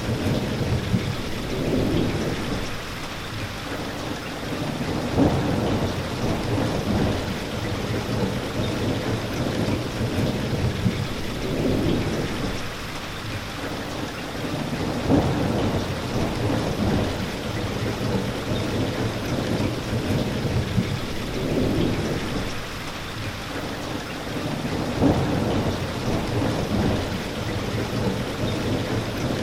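Steady rain falling, with low rolling thunder swelling and fading under it and a sharper crack recurring about every ten seconds.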